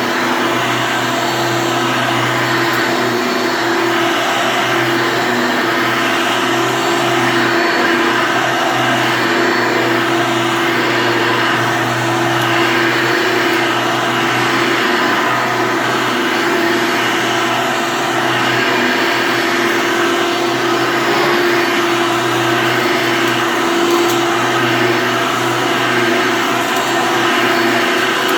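Hoover Elite upright vacuum cleaner running steadily: a constant motor whine with a low hum underneath, holding the same pitch throughout.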